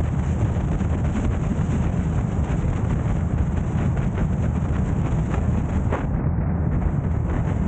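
Steady low rumble of road and wind noise from a moving car, with a few faint knocks from bumps in the road.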